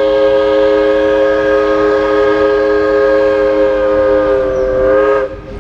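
Diesel locomotive multi-chime air horn sounding one long, loud chord, which cuts off about five seconds in.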